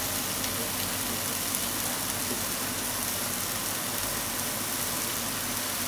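Chopped potatoes, carrots and onion frying in a pot for curry: a steady sizzle, left unstirred.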